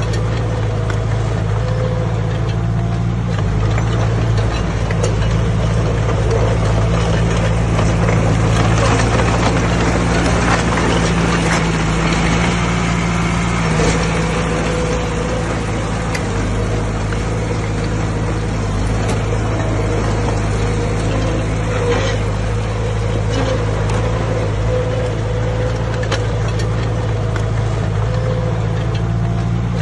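Heavy-equipment diesel engine running steadily at a constant speed, with a few faint knocks now and then.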